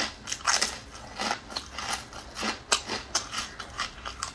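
Crisp dried carrot chip crunching as it is bitten and chewed: a run of sharp, irregular crunches, several a second.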